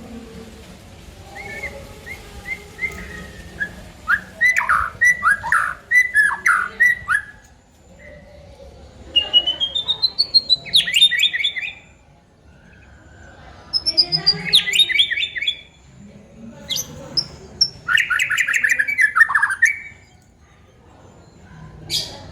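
White-rumped shama singing: about five phrases of rapid repeated notes, separated by short pauses. One phrase sweeps upward before breaking into quick notes, and others fall away in fast trills. A single short click sounds near the end.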